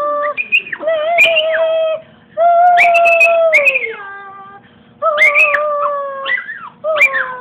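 Dog howling along to a song: long drawn-out howls, each held on one pitch and sliding down at the end, with short breaks between them and a new howl starting near the end.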